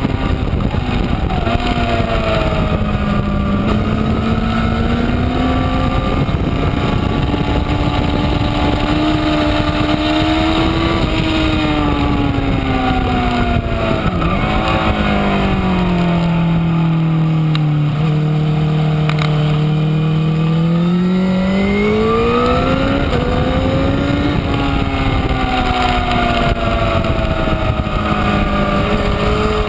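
Honda CBR1000RR's inline-four engine heard on board at speed, its pitch climbing and falling with the throttle and gear changes. About halfway through the pitch drops to its lowest for several seconds, then climbs again.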